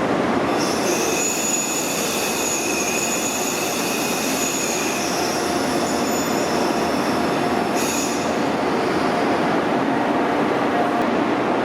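Freight train hauled by an ED76 electric locomotive rolling through the station, its steel wheels squealing on the rails in several high, held tones for the first few seconds, with a brief squeal again about eight seconds in, over the steady rumble of the passing wagons.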